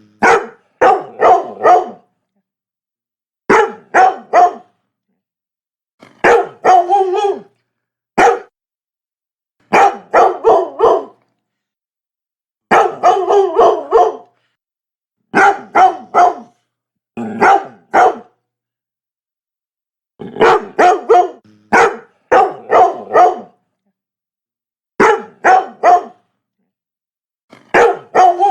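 Labrador barking in quick runs of three or four barks, with a second or two of silence between runs.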